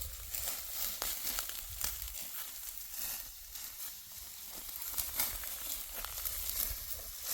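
Dry wheat stalks crunching and tearing as they are cut by hand with a sickle: a run of irregular crisp snaps and crackles with a rustle.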